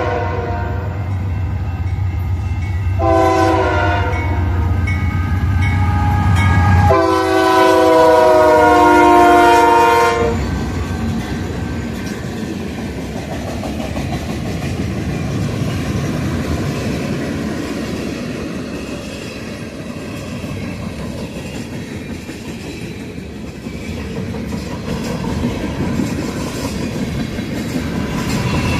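Diesel freight locomotive horn, led by a rebuilt GE C44-9W: the tail of one blast at the start, a short blast about three seconds in, and a long blast from about seven to ten seconds, over the low drone of the diesel engine. The locomotive then goes by and the freight cars roll past with clickety-clack and rumble.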